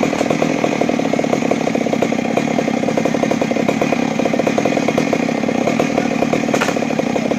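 Chainsaw engine running steadily at high speed.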